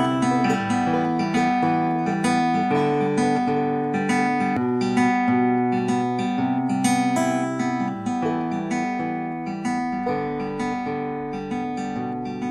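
Acoustic guitar playing an instrumental outro, with repeated strummed and picked chords that slowly get quieter.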